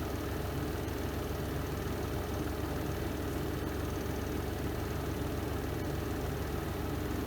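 Renova semi-automatic twin-tub washing machine's spin drum running steadily through its spin cycle: an even, unchanging motor hum with vibration.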